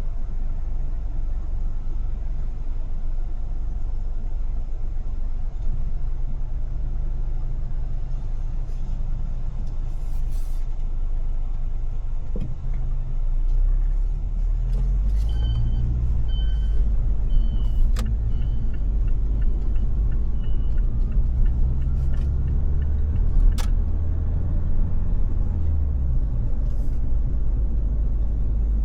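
Car driving in city traffic: a steady low rumble of engine and road that grows heavier about halfway through. A run of short high beeps sounds around the middle, and a few sharp clicks follow.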